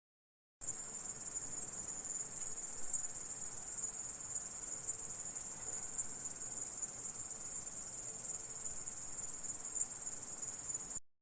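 A stridulating insect's continuous high, dense trill, starting suddenly about half a second in and cutting off abruptly near the end.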